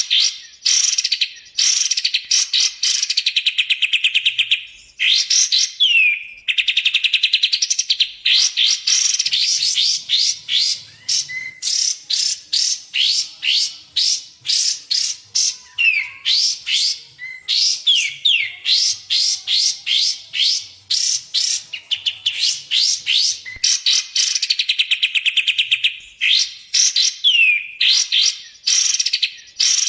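Kapas tembak and cucak jenggot songbirds singing in a continuous stream of rapid chattering trills and sharp down-slurred whistled notes, with only short pauses. This is a masteran song recording used to tutor caged songbirds.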